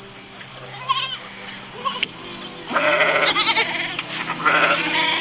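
Goat bleating: two short bleats, then two longer quavering bleats in the second half.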